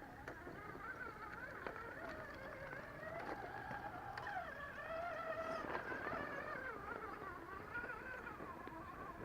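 RC crawler's electric motor and geared drivetrain whining faintly, the pitch wavering up and down as the throttle changes, with small clicks and knocks.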